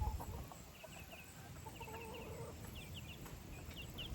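Chickens clucking softly, with many short, quick high chirps scattered throughout, and a low thump right at the start.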